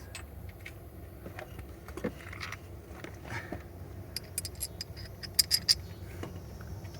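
Light metallic clicks and clinks of small hand tools and bolts being handled and fitted, with a quicker run of bright ticks about four seconds in, over a low steady hum.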